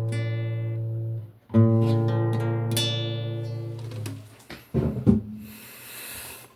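Acoustic guitar closing chords: a ringing chord stops about a second in, then a last chord is strummed and left to fade out. A couple of knocks and a soft rustle follow near the end.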